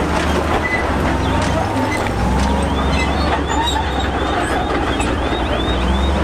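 Crawler bulldozer's diesel engine running steadily with its steel tracks squeaking in a regular rhythm, about three squeaks a second, from about two and a half seconds in.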